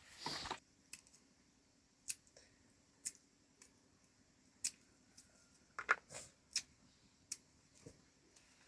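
Irregular sharp clicks and snaps, about a dozen spread over several seconds, after a short rustling burst at the start.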